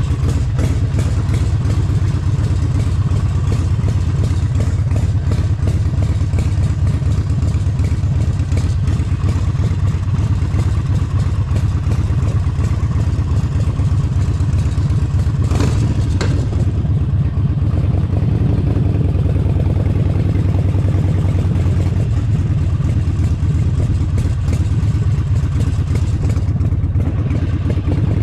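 Harley-Davidson Forty-Eight Sportster 1200's air-cooled V-twin running steadily while riding, loud and low, with a short sharp noise about halfway through.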